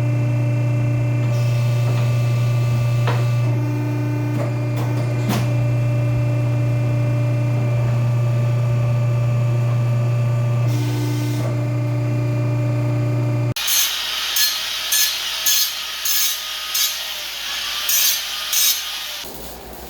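A steady low electrical or mechanical hum with fixed tones. About two-thirds of the way in it cuts off abruptly to rhythmic saw strokes, about one and a half a second, which stop shortly before the end.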